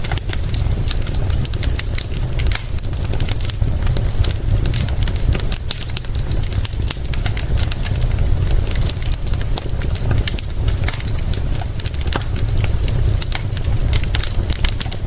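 Fire crackling with frequent sharp pops, over steady rain and a constant low rumble.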